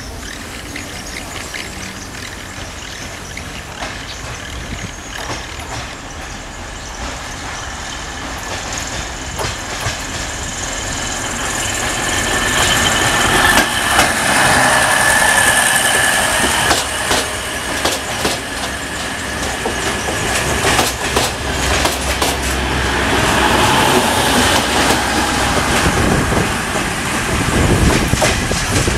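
Ex-Deutsche Bahn diesel multiple unit passing close by. The noise builds to a peak about halfway through as the cars go past, with wheels clicking over rail joints and points, and a high wheel squeal strongest around the middle and again later.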